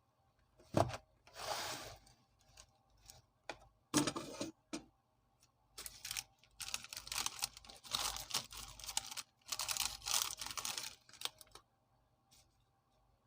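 Plastic biscuit wrapper crinkling and rustling as it is handled and torn open, in irregular bursts with a few sharp clicks, stopping a little before the end.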